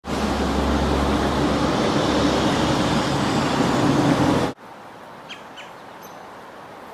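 Loud, steady rumbling noise with a low hum, like a vehicle running, cuts off abruptly about four and a half seconds in. A quiet outdoor background with a few short, falling bird chirps follows.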